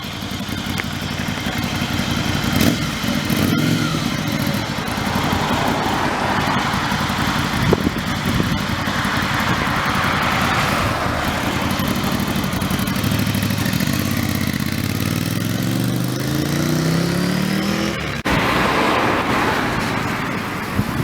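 Car engine running and accelerating, its pitch rising steadily for several seconds in the second half, over street traffic noise. It breaks off abruptly near the end.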